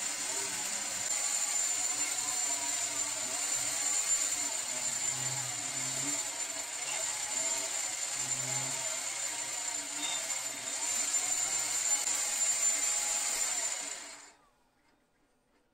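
A power tool runs steadily with a high whine, its pitch wavering a little as the load changes, then cuts off abruptly near the end.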